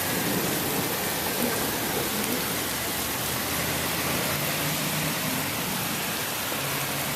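Rain falling steadily during a thunderstorm: a dense, even hiss of drops on surfaces.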